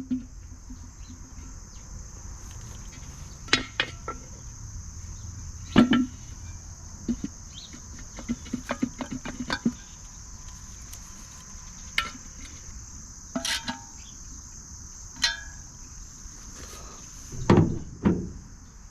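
Socket ratchet clicking in short runs, with metal clinks and knocks, as the bolts holding a cast bird bath together are snugged up to cure its wobble. A steady high insect chirring runs underneath.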